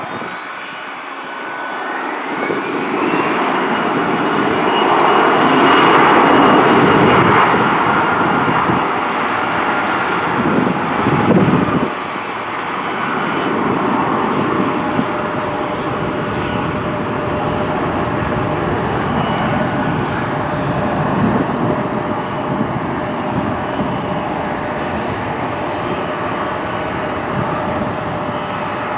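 Jet airliner engines running close by: a steady rushing noise with a high whine. The whine climbs in pitch about two seconds in, and the sound is loudest around six seconds in before settling to a steady level.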